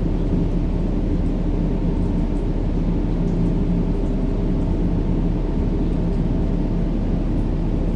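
Steady, low, rumbling noise for a baby's sleep, a deep white-noise-style hush with faint steady hum tones in it and no changes.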